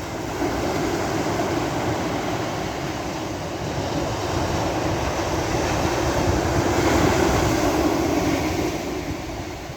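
Sea waves washing on a beach: a broad rush of surf that swells up about half a second in, is loudest around seven seconds, and eases off near the end.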